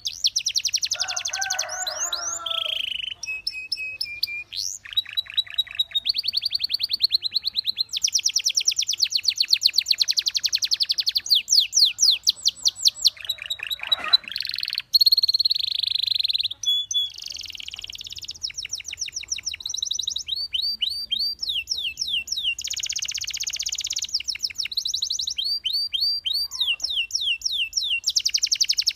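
Belgian canary singing a continuous song: fast trills and rolls of identical repeated notes and runs of quick sweeping whistles, switching to a new phrase every second or two.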